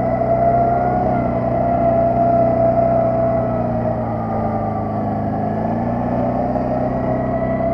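Quad bike (ATV) engine running steadily while riding, its pitch sagging slightly around the middle and rising again near the end.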